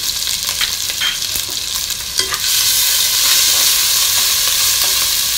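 Chopped ginger and green chilli sizzling in hot fat in an aluminium pot while a metal spoon stirs and scrapes, with a few light spoon knocks early on. The sizzle gets louder about two and a half seconds in.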